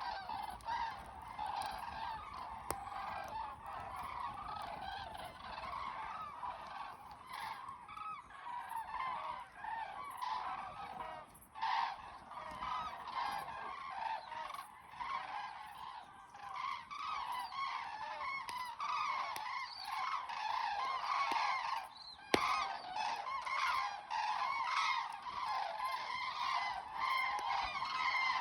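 A large flock of common cranes calling continuously, many overlapping trumpeting calls forming a dense chorus.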